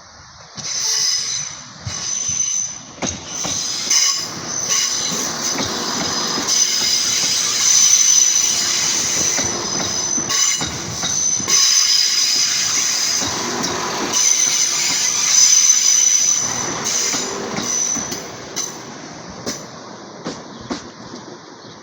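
Class 171 Turbostar diesel multiple unit running into the platform, its wheels squealing high-pitched over a rolling rumble with scattered clicks of wheels over rail joints. The sound builds to its loudest in the middle and dies away over the last few seconds as the train slows.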